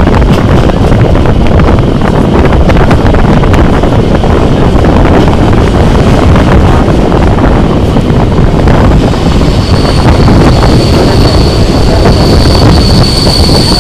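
Wind buffeting the microphone out of a moving train's carriage window, over the rumble and light clatter of the train running on the track. From about nine seconds in, a steady high squeal joins as the train nears the station.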